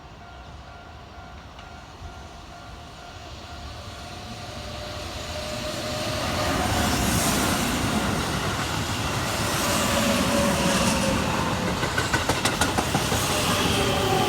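Keihan electric train approaching and passing close by, growing steadily louder over the first six seconds. Near the end its wheels clatter in a quick run of clicks over rail joints.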